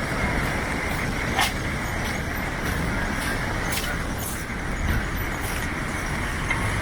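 Steady road traffic noise from a city street, with a few faint clicks.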